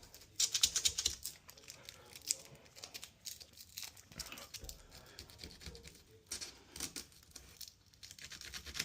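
Wood chisel paring and scraping wood from a door edge by hand, a run of short dry scrapes, clicks and taps with small pauses between them.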